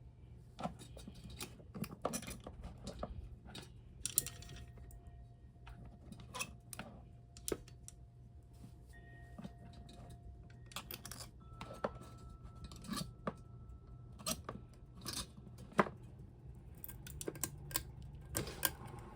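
Hunter Original ceiling fan running on a 2-amp Hunter wall control: a faint low hum, with scattered light clicks and taps and a few faint thin tones.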